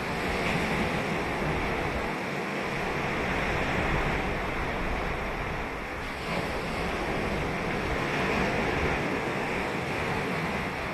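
Ocean surf breaking and washing on a sand beach, a continuous rush that swells and eases gently, with some wind on the microphone.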